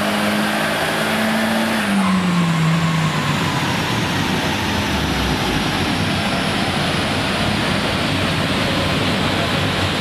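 Nissan S15 Silvia's turbocharged SR20DET four-cylinder running hard on a chassis dyno. Its note falls away about two seconds in as the run ends. A steady rushing noise of the wheels and dyno rollers follows, with a faint high whine slowly falling as they coast down.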